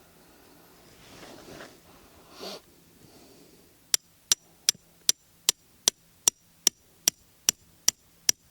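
Faint rustling, then about four seconds in a run of sharp, evenly spaced clicks begins, about two and a half a second, as from a small clicking mechanism.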